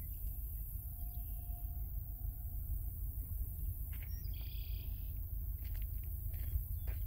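A few faint bird chirps over a steady low outdoor rumble, with the clearest chirping about four seconds in.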